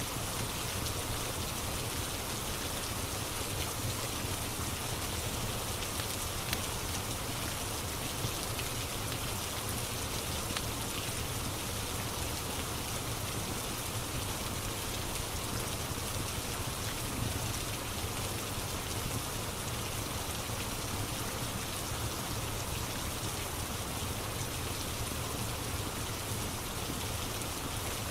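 Steady rain ambience, an even hiss of drops, with a few faint crackles from a wood fire here and there.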